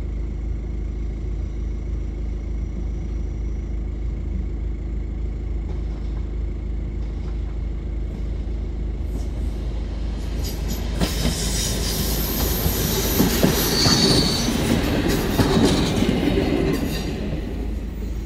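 A passenger train passing: a low rumble grows as it nears, then turns to loud rolling rail noise with wheels knocking over the rail joints and a brief high wheel squeal about fourteen seconds in, before it fades.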